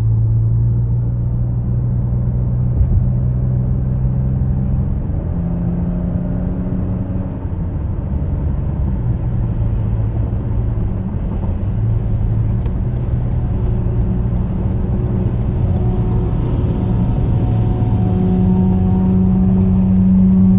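Cabin noise inside a 2014 Toyota Highlander Limited Platinum on the move: a steady low road rumble with a hum that steps up in pitch a couple of times, about five seconds in and near the end.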